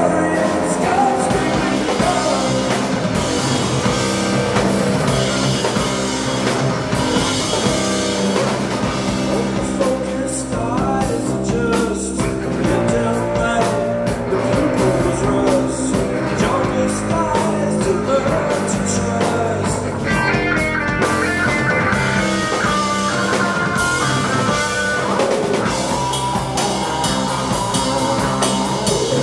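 Live rock band playing loudly, with guitar and a drum kit in a dense, continuous mix.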